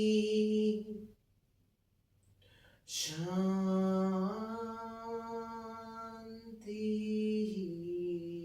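A woman's voice chanting a mantra in long, held notes, unaccompanied. A held note ends about a second in, and after a pause of about two seconds a hissing 'sh' opens another long drawn-out note that steps up in pitch. A second, shorter one begins near the end and slides down.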